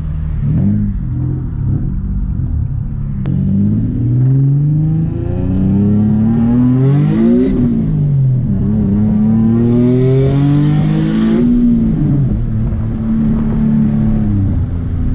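Turbocharged Nissan 370Z's 3.7-litre V6 accelerating through the gears: the revs climb, drop at an upshift about seven and a half seconds in, climb again and drop at a second shift near twelve seconds, then hold steady.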